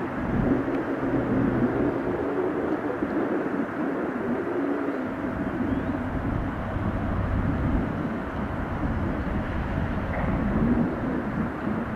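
Jet airliner engines heard as a steady rumble with a low hum, holding at a fairly even level.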